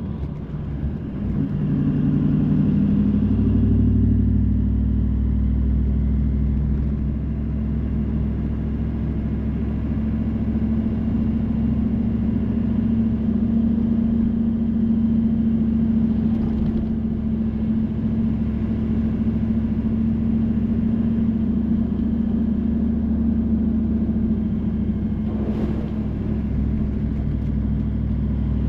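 A car being driven, with steady engine and road noise as a low drone. The engine pitch shifts in the first few seconds, then holds steady. There is a brief hissing sound near the end.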